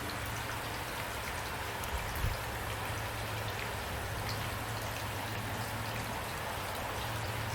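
Steady rain falling, with individual drops ticking over an even hiss and a low steady hum underneath; a soft thump about two seconds in.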